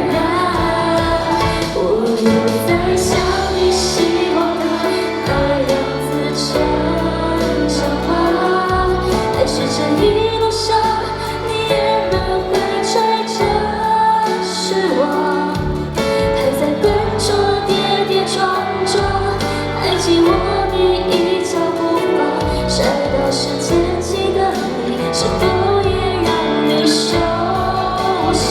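Live pop song over a backing track, with a female voice and many voices singing along together.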